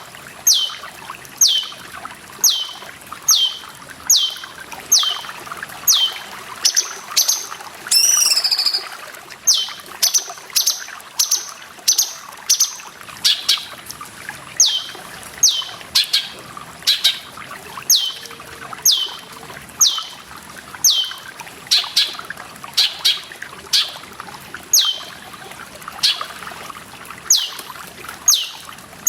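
Cucak cungkok calling over and over, a short downward-sweeping whistle about once a second, over a steady trickle of water. About eight seconds in, one different, wavering call breaks the series.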